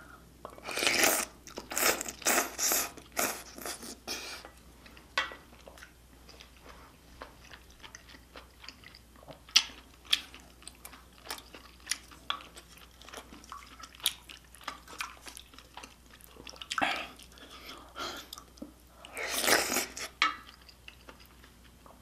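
A person eating close to the microphone: chewing and crunching mouth sounds, with short bursts of louder ones in the first few seconds and again near the end.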